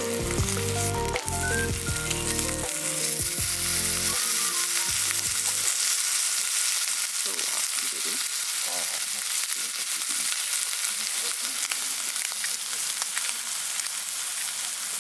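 Background music for the first five or six seconds, then a steady sizzle of food frying on a hot pan or grill.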